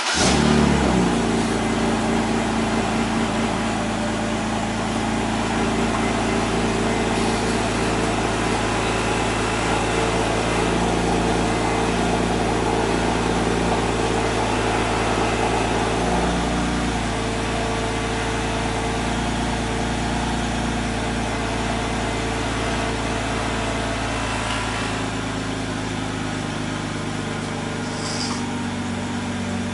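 BMW E92 328i's inline-six running straight after a cold start, heard through the exhaust with its muffler cut off. It starts suddenly and loudly, then holds a steady fast cold idle that drops a step in pitch about 16 seconds in and again near 25 seconds.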